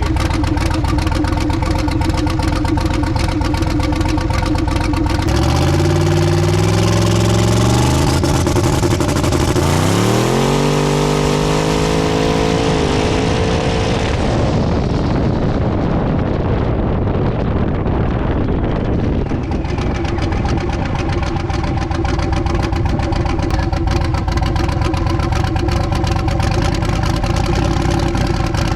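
Twin-turbo LS V8 in a Chevy S10 drag truck idling, then accelerating hard: the revs climb, drop at a gear change about ten seconds in, and climb again. The sound then dulls as the truck pulls away, and a steady engine idle fills the last several seconds.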